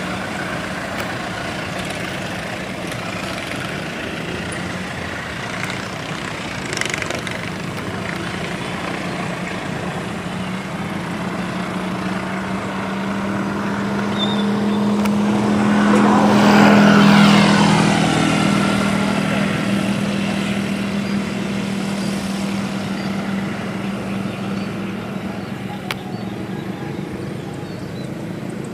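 Departing passenger train running away along the track: a steady low hum with rail and wheel noise. Midway through, the sound swells to its loudest with a falling pitch, then eases off again.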